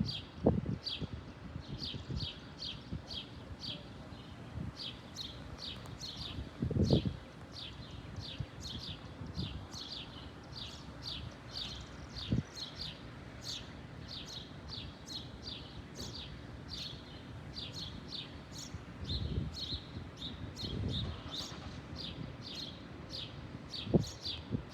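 A bird chirping over and over, short high chirps at about two a second, with a few low thumps scattered through.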